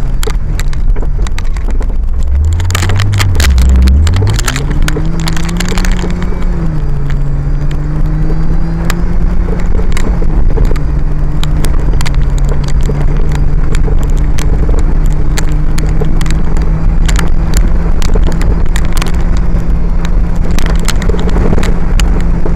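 Off-road 4x4's engine running under way on a rough dirt track. Its note dips and climbs a few seconds in, then holds steady. Many sharp clicks and knocks from the bumpy ride sit over a constant low rumble.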